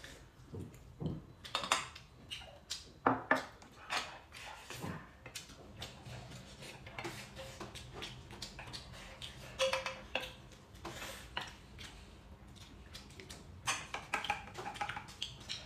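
Chopsticks clicking and scraping against stainless-steel rice bowls during a meal, in short, irregular taps, with chewing between them.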